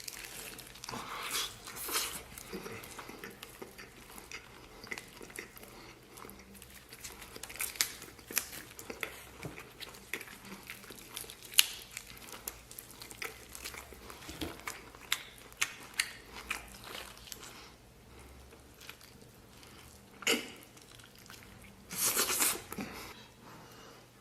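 Close-miked chewing and biting of grilled lamb chops: wet smacks and sharp little clicks, with two louder bursts near the end.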